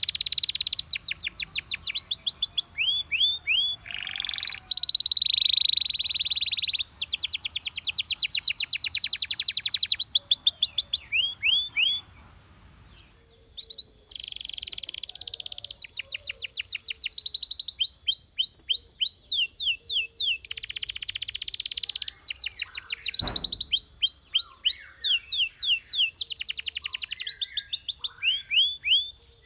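Belgian canary singing: fast high-pitched trills and runs of quickly repeated chirps, broken by a pause of about two seconds near the middle. A single brief knock sounds about two-thirds of the way through.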